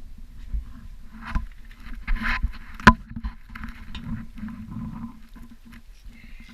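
Irregular knocks, scrapes and rustles of something being handled, with one sharp click about three seconds in, over a low steady rumble.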